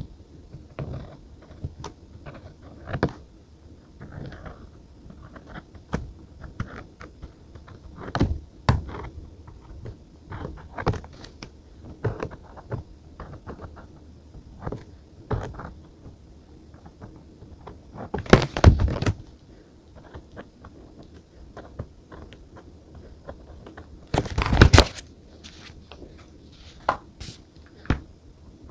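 Desk sounds of paper journaling: scattered taps, clicks and light scraping as pens, paper and stationery are handled, with two louder rustling bursts, one about two-thirds of the way through and one near the end.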